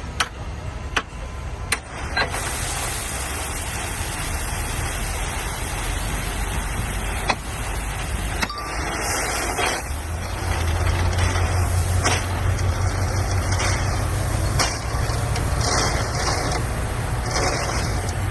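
Bulldozer's diesel engine running under load, getting louder about halfway through, with scattered sharp metallic clanks and knocks as it pushes gravel.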